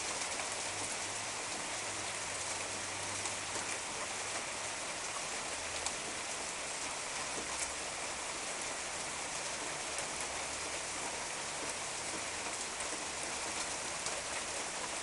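Small hail mixed with rain falling steadily, a dense even patter of hailstones hitting the ground and nearby surfaces, with faint scattered ticks from individual stones.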